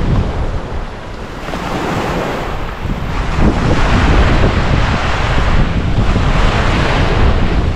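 Ocean waves breaking and washing onto the beach in surges that grow louder about halfway through, with wind buffeting the microphone.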